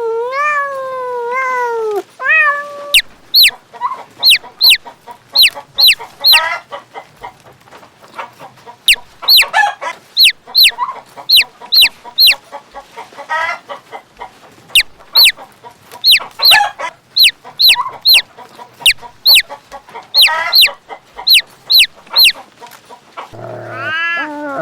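A cat meows a few times, then chickens call: many short, sharp, high calls in quick runs, with some lower clucks among them.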